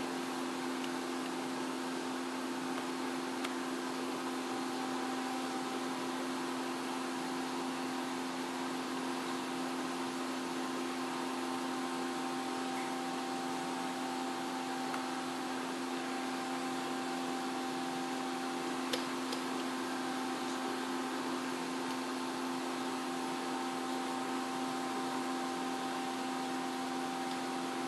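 Steady mechanical hum with a hiss under it, holding several constant tones, with a faint click about nineteen seconds in.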